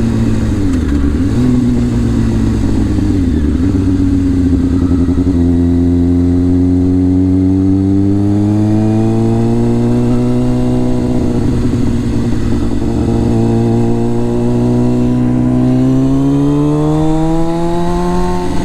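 Honda CBR600F4i inline-four engine running on the road, its pitch dropping with a few gear changes in the first five seconds. It then rises and falls gently with the throttle, climbing near the end before falling off at another shift.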